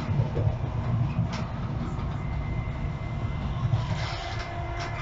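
Passenger train running, heard from inside the carriage: a steady low rumble with a few faint clicks from the wheels on the rails.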